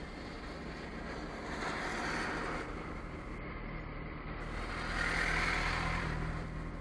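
A vehicle's engine rumbles steadily, with two swells of passing noise, one about two seconds in and a louder one about five seconds in.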